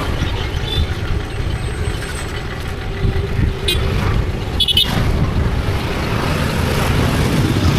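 Steady rumble of wind and road or traffic noise heard while riding, with two short high-pitched sounds a little past halfway, the second like a brief horn toot.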